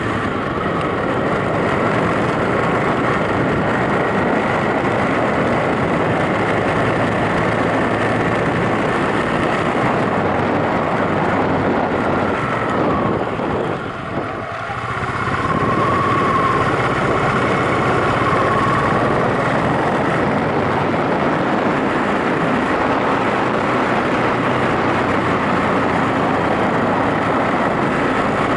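Yamaha SRX400's single-cylinder four-stroke engine running while the motorcycle is ridden, under a steady rush of wind noise. The sound drops briefly about halfway through, then picks up again.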